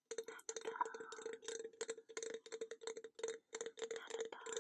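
Rapid, close-miked ASMR clicking and tapping, about five or six sharp clicks a second.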